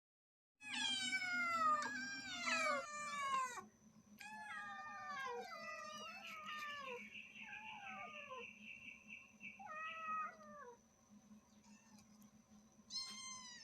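Cats meowing loudly and repeatedly, several overlapping calls that fall in pitch, loudest in the first three seconds. The calls grow sparser after about eleven seconds, with one more short meow near the end.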